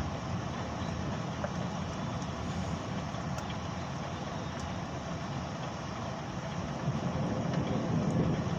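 Thunderstorm ambience: a steady low rumble of wind and rain, with a few faint ticks, growing slightly louder near the end.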